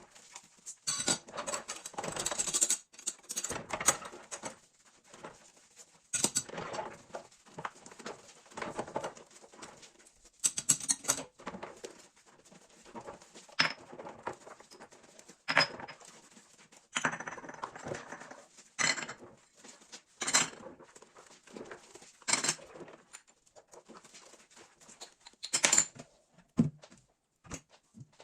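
Kitchen items being handled and set down: a run of irregular knocks, clinks and rustles.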